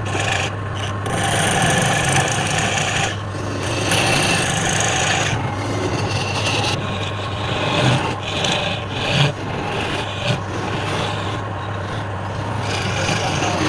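Wood lathe running with a steady motor hum while a tool scrapes against the spinning wood. The rasping cut breaks off briefly several times and resumes.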